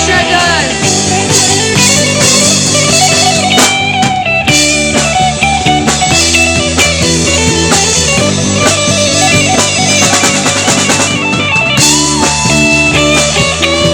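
Live rock band playing an instrumental passage: guitar lines, with bent notes, over drums.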